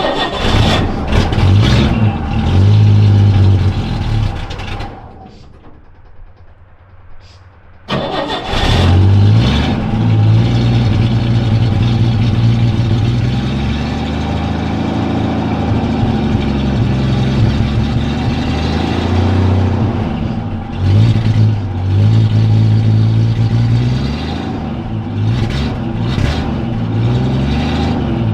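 1970 Chevrolet C10 pickup engine running under load, its pitch rising and falling with the throttle. It drops much quieter about five seconds in, then comes back loud about three seconds later and keeps pulling.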